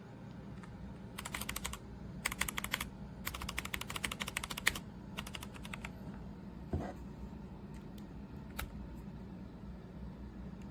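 Redragon K556 mechanical keyboard being typed on: four quick runs of key clicks in the first six seconds, then a few single key presses.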